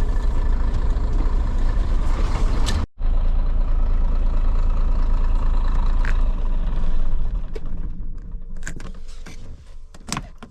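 1989 Scania 93M 280 lorry's nine-litre six-cylinder diesel engine running steadily, broken by a brief cut about three seconds in, then fading away over the last few seconds with a few clicks.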